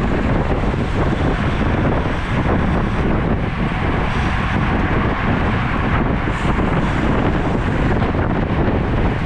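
Steady, loud wind buffeting on the microphone of a camera carried on a moving road bike.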